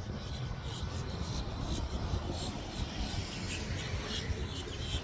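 Outdoor background: a steady low rumble with short, high chirps repeating throughout.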